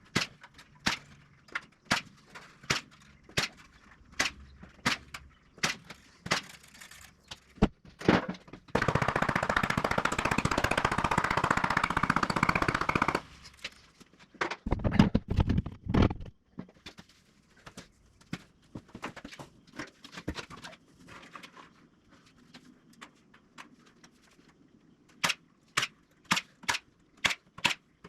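Repeated sharp strikes on wooden 2x4 framing, as in hammering nails, at roughly one to two blows a second and quicker near the end. About nine seconds in, a steady rushing noise from a tool runs for about four seconds, and a few heavier knocks follow it.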